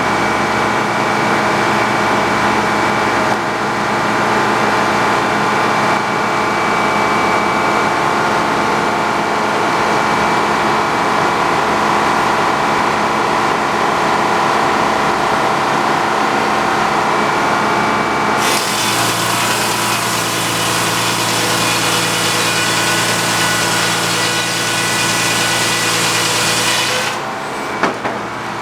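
A sawmill's engine runs steadily. About 18 seconds in the blade bites into a log and a loud, hissing cut through the wood joins the engine, ending suddenly about 27 seconds in, followed shortly after by a single knock.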